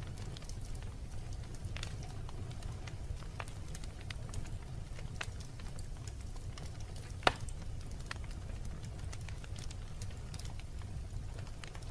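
Wood fire burning in a fireplace, crackling with scattered pops over a steady low rumble; one pop, a little past halfway, is much louder than the rest.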